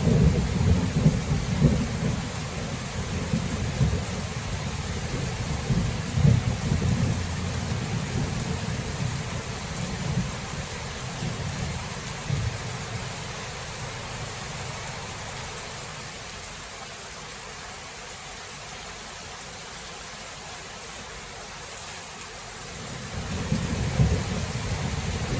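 Thunderstorm: steady rain with rolling thunder. A low rumble of thunder fades away over the first half, and another rumble builds near the end.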